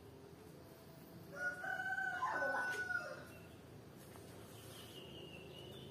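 A rooster crowing once: a single call held for about two seconds, starting about a second and a half in.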